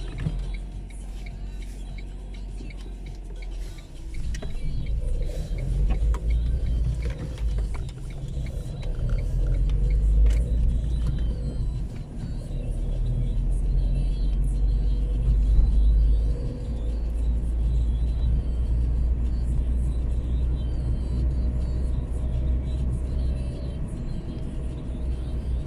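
Car driving on wet roads in light drizzle: a steady low rumble of engine and tyres, with scattered light ticks.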